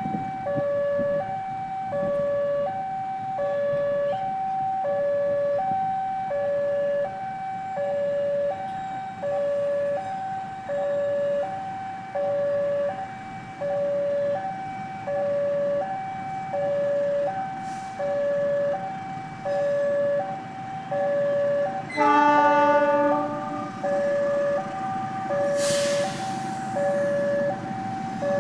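Level-crossing warning alarm sounding a steady two-tone signal, alternating between a lower and a higher note about twice a second, which warns that a train is approaching. About three-quarters of the way through, a horn sounds loudly for about a second and a half, and a short hiss follows.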